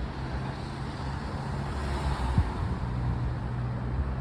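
Metro-North M7 electric multiple-unit train approaching, a steady drone of motors and wheels with a low hum that grows a little louder midway. A single sharp knock about two and a half seconds in.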